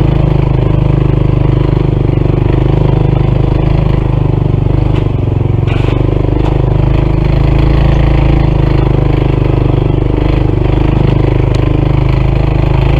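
Honda CT125's single-cylinder four-stroke engine labouring under heavy load on a steep climb, running steadily with a metallic clatter from inside the engine under strain. That clatter is the sign of internal engine failure, later traced to a faulty piston and a misaligned valve.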